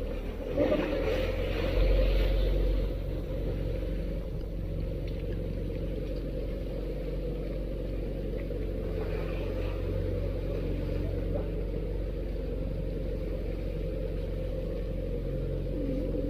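A fishing boat's engine running steadily with a low rumble, with a couple of louder thumps in the first few seconds.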